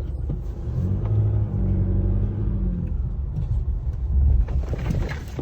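Nissan NP300 pickup's engine running under load with a steady hum for a couple of seconds, then a heavier low rumble about four seconds in.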